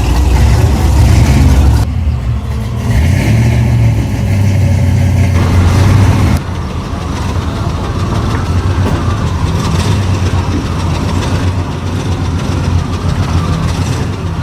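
Vehicle engine running with a deep low rumble, changing abruptly about two seconds in and dropping to a quieter, more even mix of engine sound and background voices about six seconds in.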